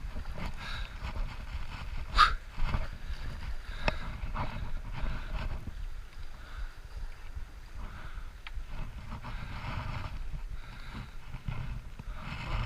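Water sloshing and boat-side handling noises, with one short, sharper splash about two seconds in.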